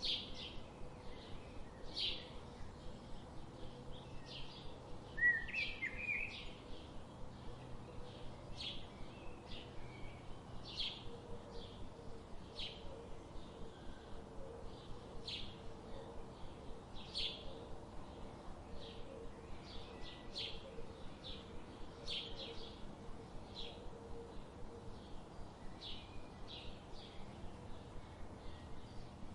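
Forest birds calling: a steady run of short, sharp high notes, about two or three a second, with a brief louder warbling call about five seconds in.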